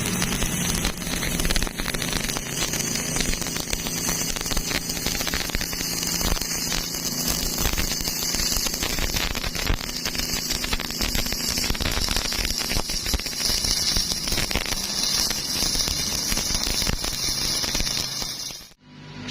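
Electric welding arc crackling and spitting steadily as a bead is run on thin steel tube, then stopping abruptly near the end as the arc is broken.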